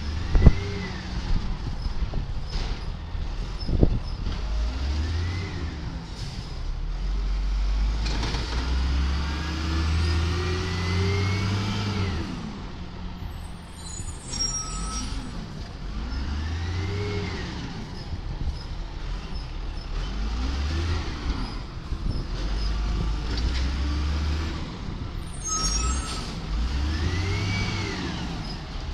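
Cat 3126 diesel engine of a Peterbilt 320 side-loader garbage truck, revving up and dropping back over and over, one longer rev partway through. Short air brake hisses come twice, and there are two sharp knocks near the start.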